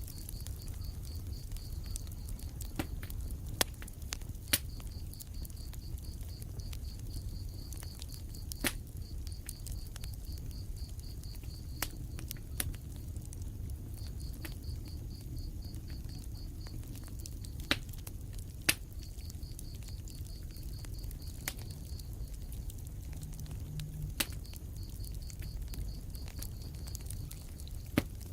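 Wood fire crackling in a fireplace: a steady low rumble of flames with sharp, irregular pops, a few of them much louder. Over it, a high, rapidly pulsed chirping comes and goes in bouts of a few seconds.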